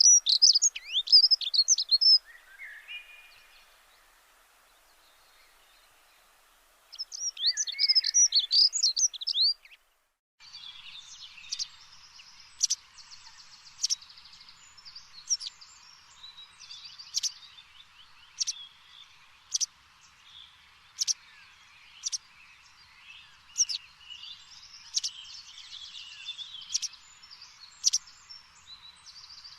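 Birds singing: two bursts of rapid, high warbling song, then an abrupt change about ten seconds in to a steady chorus of birds with one sharp chirp repeated a little more than once a second.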